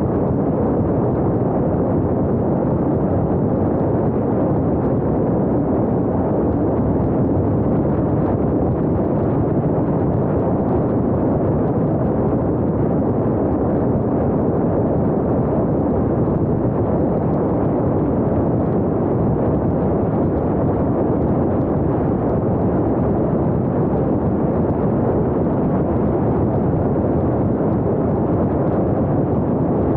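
Steady rumble of wind and road noise from a car driving, even and unchanging throughout.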